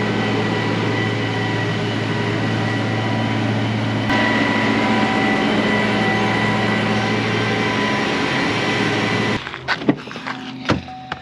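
Steady engine or machine drone that cuts off abruptly about nine seconds in, followed by a few sharp clicks or knocks.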